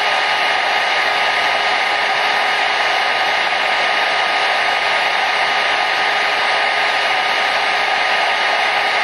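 Hair dryer running steadily: an even, unchanging rush of blown air with a faint steady whine from its motor and fan.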